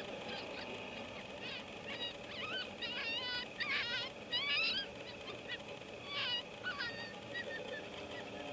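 A chorus of coyote yips and wavering howls, many short high calls bending up and down in pitch, busiest around the middle.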